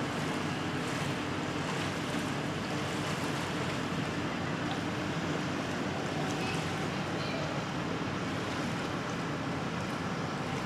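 Steady wind and sea noise with a low hum underneath, heard from a docked ship, with a few faint high chirps.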